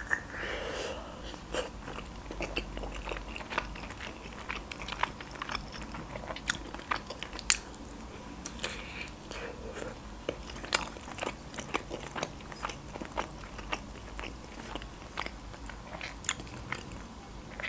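A person biting into and chewing a khinkali dumpling close to the microphone, mukbang-style: chewing with irregular sharp clicks and smacks.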